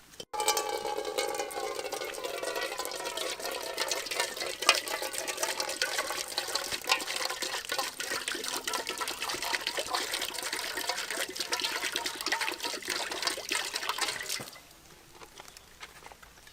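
Water running and splashing for about fourteen seconds, starting and stopping abruptly.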